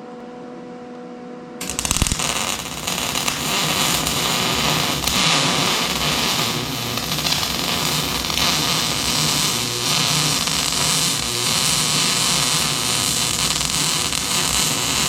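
Electric arc welder running a continuous weld bead on a bracket, a steady crackling hiss that starts about a second and a half in and cuts off near the end.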